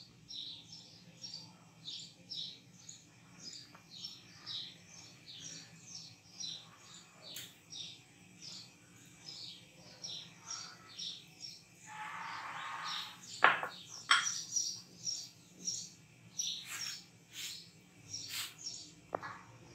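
A small bird chirping repeatedly, a few short high chirps a second. About twelve seconds in there is a brief rustling scrape, followed by a few sharp clicks.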